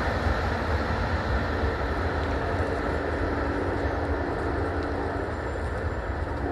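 Low rumble of a passing train fading slowly as it draws away along the line, with a car driving past close by near the end.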